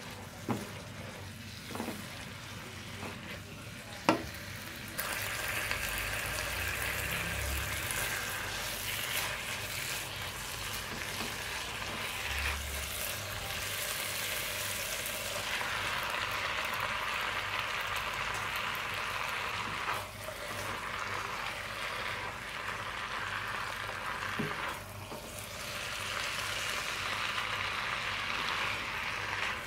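Chicken and vegetables sizzling in a hot wok as they are stir-fried with a spatula. A few sharp knocks of the spatula on the wok come in the first few seconds, and about five seconds in the sizzling turns into a loud, steady hiss.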